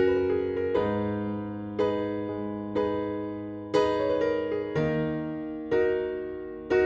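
Background music: electric piano chords struck about once a second, each fading before the next.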